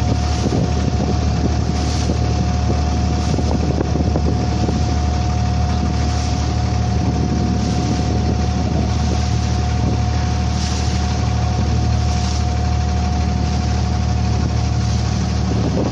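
Passenger boat's engine running steadily: a constant low hum with a steady whine over it, under the rush of water and wind on the microphone.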